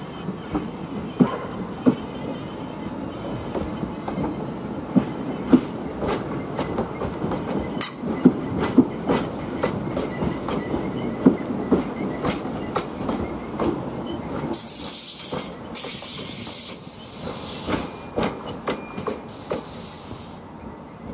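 Skånetrafiken X61 electric multiple unit pulling away, its wheels knocking over rail joints and points in irregular clicks and thumps over a low rumble. In the last several seconds a high hissing squeal from the wheels comes and goes three times as the train takes the curve.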